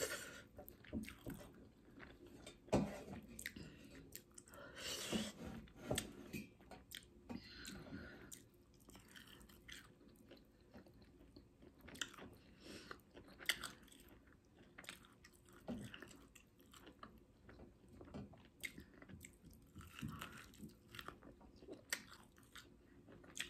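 A person chewing pork ribs and rice close to the microphone, with short smacks and clicks at irregular intervals.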